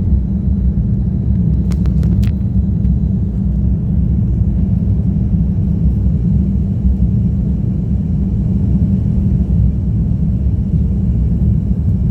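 Steady low rumble of a Japan Airlines Airbus A350-1000 with Rolls-Royce Trent XWB-97 engines climbing after take-off, with a few short clicks about two seconds in.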